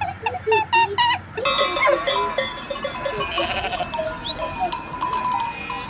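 A large flock of sheep bleating, many voices overlapping, with bells ringing among them. This starts abruptly about a second and a half in, after a run of short repeated animal calls at about two a second.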